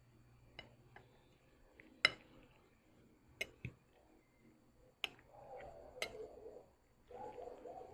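Chopsticks or cutlery clicking against a bowl: a series of sharp clicks, the loudest about two seconds in. From about five seconds in come softer, muffled eating sounds.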